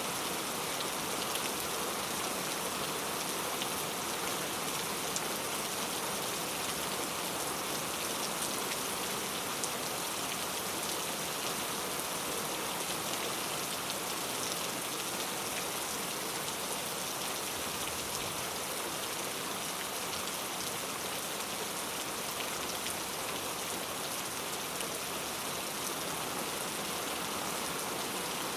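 Steady heavy rain, a dense even hiss of falling rain with fine scattered drop ticks.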